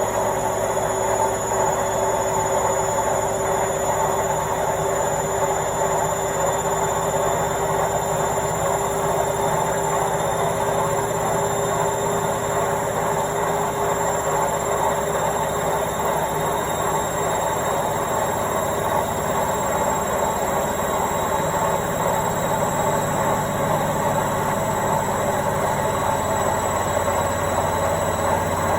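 Washing machine running: a steady, even mechanical hum with a thin high whine over it.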